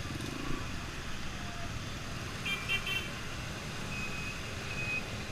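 Yamaha XTZ 125 single-cylinder motorcycle riding in street traffic, a steady low engine and wind rumble. A few short horn toots come about halfway, and thin high beeps sound near the end.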